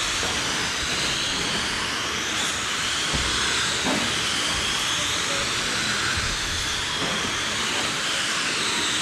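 A pack of 1/10-scale RC late-model cars with 21.5-turn brushless electric motors running laps on a dirt oval: a steady hissing whine whose pitch keeps rising and falling as the cars accelerate down the straights and lift for the turns.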